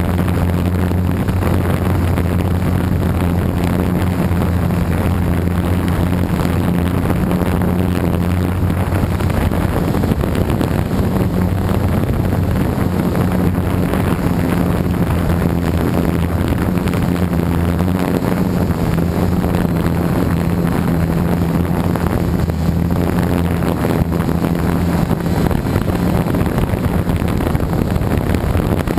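Gaui 330X quadcopter's electric motors and propellers humming steadily in flight, the pitch shifting slightly every few seconds, with wind noise on the microphone.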